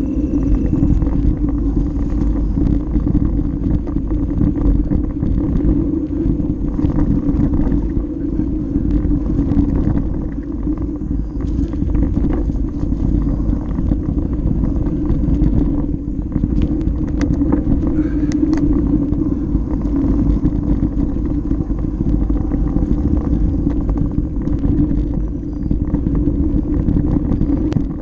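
Mountain bike riding a dirt flow trail, recorded on a GoPro Session: a steady rumble of tyres and wind on the camera, with scattered clicks and rattles from the bike.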